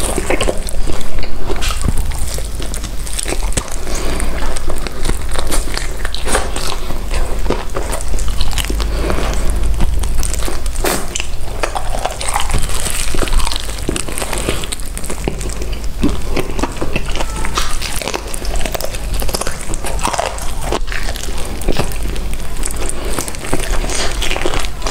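Close-miked eating of fried chicken: repeated crunchy bites through the fried coating, with crackling and chewing between them.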